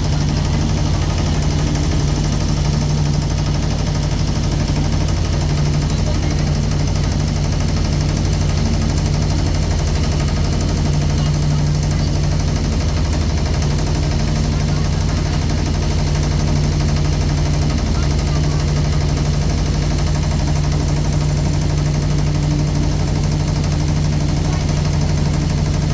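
Motorboat engine running steadily at an even speed, a constant low drone.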